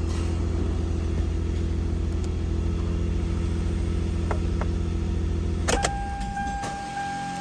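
Toyota 3.3 L V6 engine idling steadily, then switched off about six seconds in with a sharp click. A steady high electronic tone comes on as it stops.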